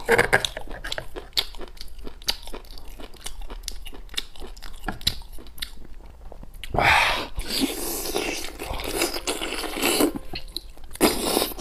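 Close-up sounds of a person biting, tearing and chewing boiled rib meat with chewy sinew off the bone, with many small wet clicks and crunches. There are louder stretches of tearing about seven seconds in and near the end.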